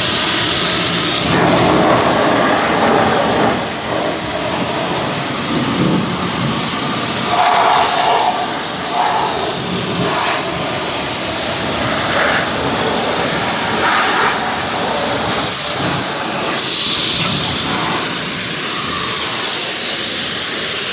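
Pressure washer spraying water against a truck: a loud steady hiss whose tone shifts several times as the jet moves over different surfaces.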